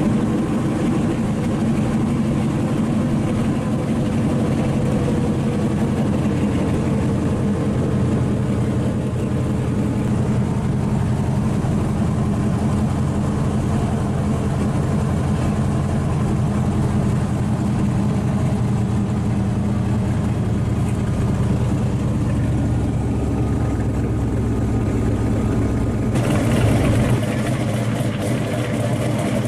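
Supercharged V8 in a 1970s Chevrolet Vega running steadily as the car cruises. About 26 seconds in, the sound shifts to a brighter, hissier engine note heard from outside the car as it rolls slowly by.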